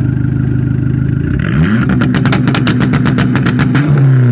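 Dodge SRT-4's turbocharged four-cylinder with a loud aftermarket exhaust, idling, then revved up about a second and a half in. At high revs it gives a fast run of sharp, evenly spaced pops for about two seconds before the revs fall back near the end.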